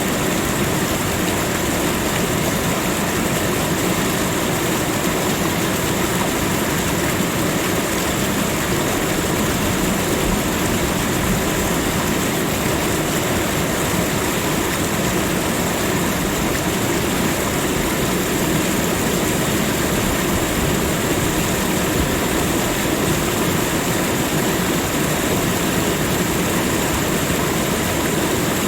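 Flowing water rushing steadily and evenly, with no breaks or swells.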